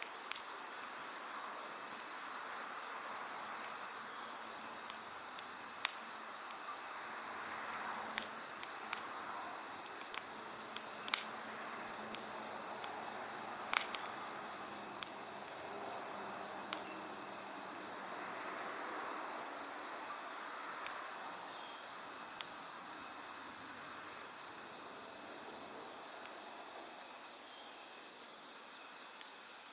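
Steady chorus of night insects, a continuous high trill with a second chirp repeating about once a second, over the soft hiss of a wood fire. Sharp pops and crackles from the burning wood come every few seconds, the loudest about halfway through.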